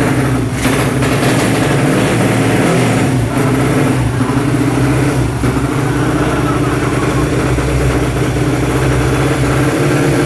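A bored-out 130cc motorcycle engine on standard ignition runs steadily at low revs, with an even, unchanging note.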